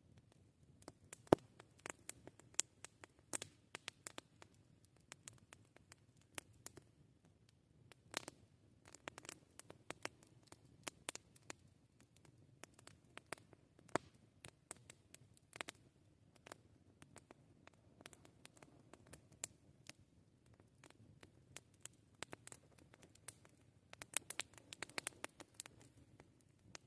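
Campfire crackling: irregular sharp pops and snaps from burning wood over a soft low hiss, with one loud pop about a second in and thicker clusters of crackles around eight to eleven seconds in and again near the end.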